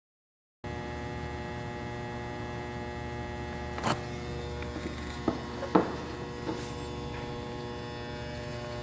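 Steady electrical mains hum, with a few short knocks and clicks in the middle.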